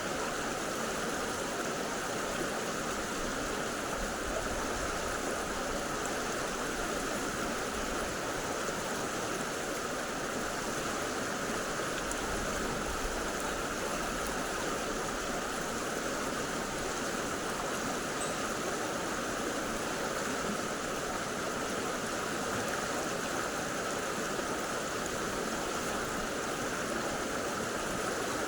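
Mountain stream rushing steadily over rocks, a constant, even water noise.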